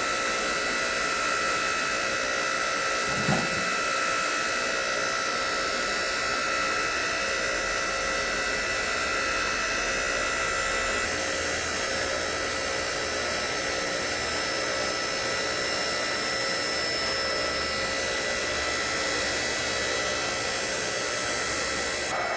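Log-splitting machine's motor running steadily with an even whir and a high whine, with one brief knock about three seconds in.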